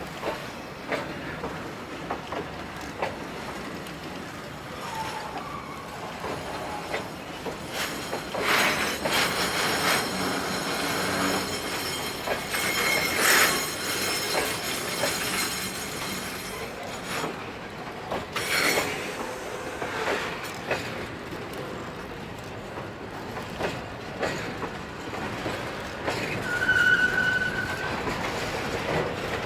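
Freight train wagons rolling along the track, with repeated short clicks over the rail joints and brief high wheel squeals, the clearest about a third of the way in and again near the end.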